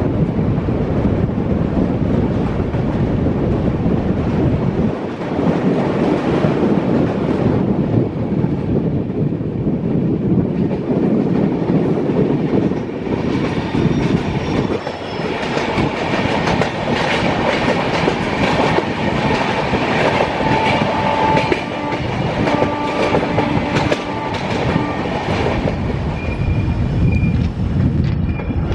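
Passenger train running along the track, its wheels clattering over the rails. Steady high-pitched tones join in about halfway through and fade near the end.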